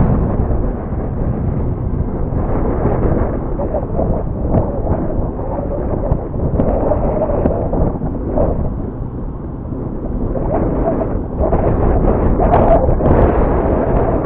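Strong gusty wind buffeting the microphone: a loud, continuous low rumble that surges and eases, strongest near the end.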